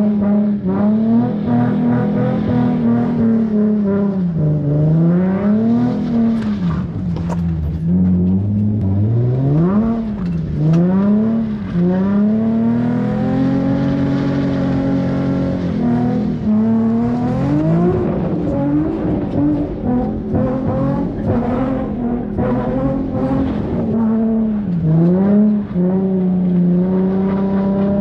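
Car engine running at high revs, its pitch dipping and climbing again every few seconds.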